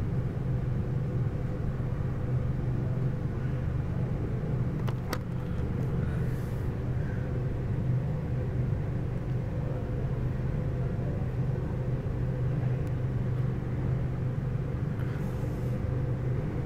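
Freight train of boxcars and refrigerated cars rolling past, giving a steady low rumble of wheels on rails, with one sharp click about five seconds in.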